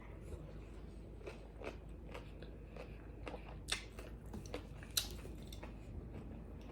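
Close-miked chewing and biting of crunchy pizza tacos: irregular small crunches and mouth clicks, with two louder crunches a little under four and about five seconds in.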